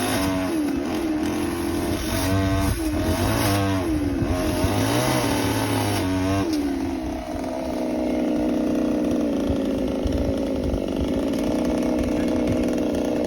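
Chainsaw engine revving up and down several times, then running steadily under load for the second half, as it cuts a branch from a Manila tamarind tree.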